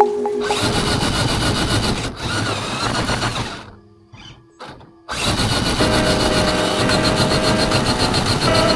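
Electric motor and gear drive of an Axial SCX6 Honcho RC crawler whining under throttle; it cuts out for about a second and a half midway and then starts again abruptly.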